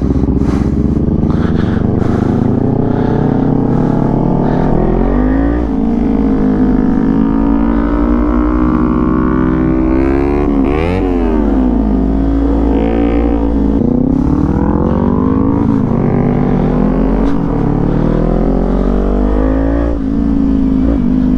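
Motorcycle engine pulling through the gears: the note climbs, drops at each upshift and climbs again several times, over steady wind and road noise. A second engine note crosses it around the middle.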